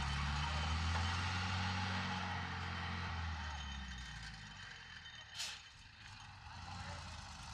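Heavy diesel engine of earthmoving equipment running steadily, then fading away after about four seconds. About five seconds in there is a short, sharp hiss.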